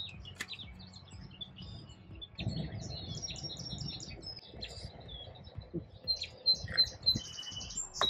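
Songbirds chirping and calling repeatedly in short notes. From about two and a half seconds in until near the end, a low, steady rustling noise runs underneath.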